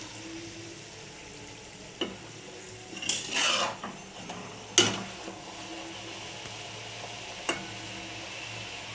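Metal utensil knocking and scraping against a cooking pan: four sharp clinks, the loudest about halfway through and a short scrape just before it, over a steady sizzle of frying oil.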